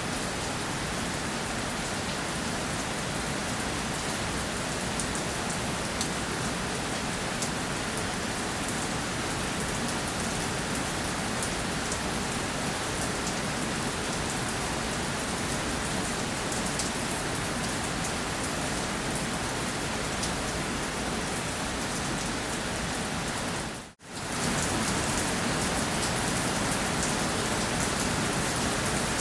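Steady rainfall, an even hiss flecked with fine drop patter. About five seconds before the end it briefly dips out and comes back a little louder.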